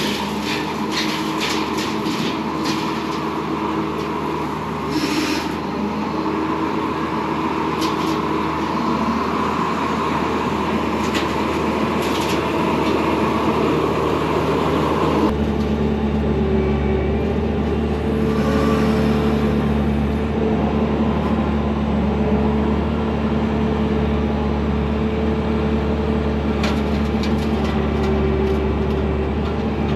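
Bobcat T595 skid steer's diesel engine running under load, driving a side-mounted hydraulic brush mower, with scattered sharp snaps in the first half. About halfway through the sound shifts abruptly to a deeper, steadier drone.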